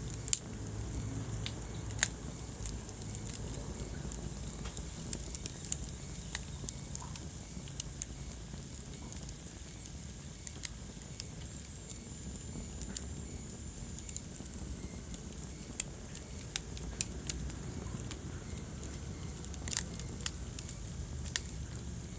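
Wood fire burning in a fireplace, with a low steady rumble and irregular sharp crackles and pops, the loudest about two seconds in and again near the end.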